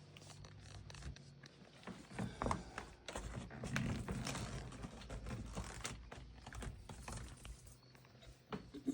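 Scattered light clicks, taps and rustles of handling and footsteps as the person filming moves around, over a faint low hum.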